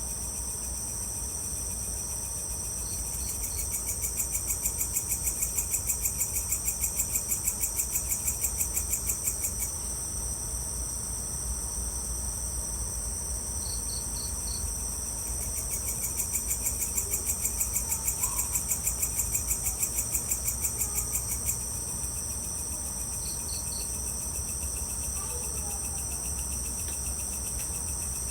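Evening chorus of night insects: a steady high-pitched buzzing, joined twice by a louder pulsing trill of about four pulses a second that lasts some six seconds each time. Short triple chirps recur about every ten seconds, over a faint low hum.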